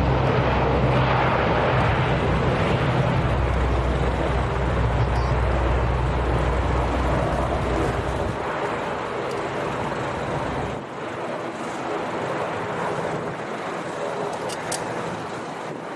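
Jet aircraft engine noise: a steady roar that slowly fades. A low rumble underneath drops away about eight seconds in, and drops again near eleven seconds.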